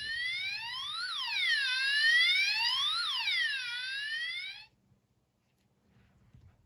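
Electronic police siren played from a children's sound book's button, wailing up and down twice, then cutting off suddenly about four and a half seconds in.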